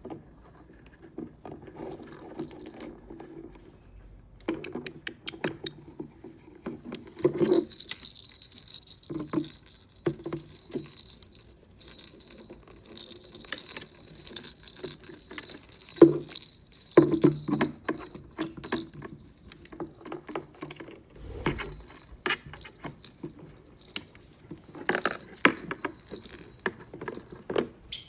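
Small metal bell jingling and rattling in irregular bursts, with knocks and rustling underneath, as a pet caique plays with a bell toy. The ringing is steadiest from about a quarter of the way in to a little past the middle, and again toward the end.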